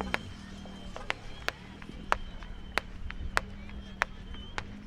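Firecrackers popping in an irregular string of sharp cracks, about two or three a second, over a low steady hum.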